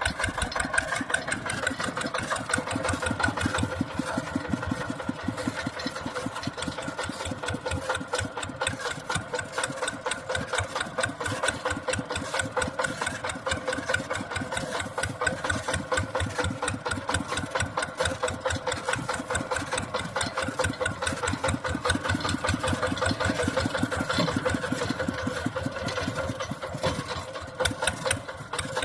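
Mini tractor's engine running steadily with a rapid, even beat.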